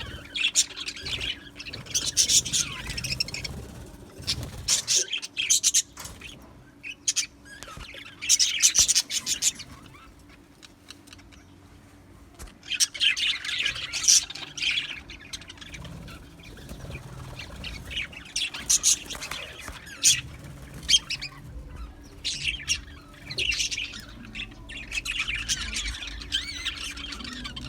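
A flock of budgerigars chattering and chirping in repeated bursts, with a quieter lull about halfway through.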